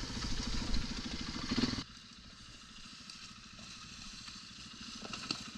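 Dirt bike engine running with a steady rapid run of firing pulses, cutting off abruptly about two seconds in and leaving only a much quieter faint rumble.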